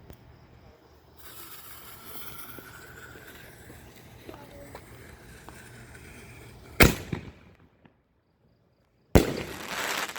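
Consumer firework mortar: a steady hiss from about a second in, then two loud, sharp bangs about two and a half seconds apart, each dying away quickly.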